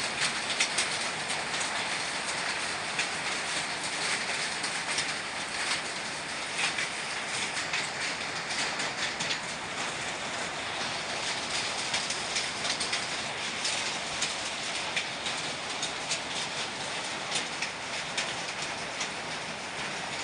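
Summer thunderstorm at full force: strong gusting wind and rain, with a constant clatter of sharp clicks and knocks throughout.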